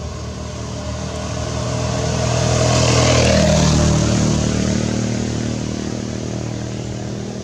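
A motor vehicle passing by: its engine grows louder to a peak about three seconds in, drops in pitch as it goes past, then fades away.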